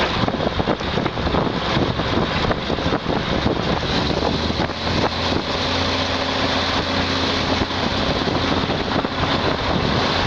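Moving diesel passenger train heard from an open carriage window: a steady running noise of the train and rushing air on the microphone, with an engine drone that settles into a steadier hum about five seconds in.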